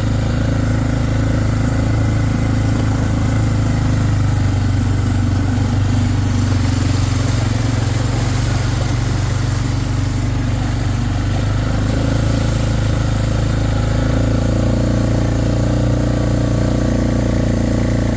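A vehicle engine running steadily at low speed, with a slight shift in its note about two-thirds of the way through.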